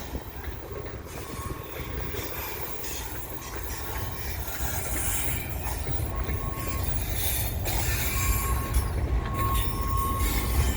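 CN freight train rolling by: a steady low rumble of the cars that grows louder, with a thin, high wheel squeal coming and going several times.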